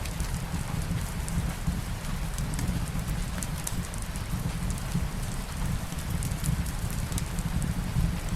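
Steady light rain mixed with a crackling fireplace fire: an even hiss over a low rumble, with scattered sharp ticks throughout.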